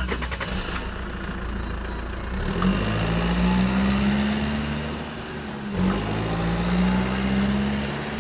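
An engine running steadily, its pitch rising a little about two and a half seconds in and dipping briefly near six seconds before settling again.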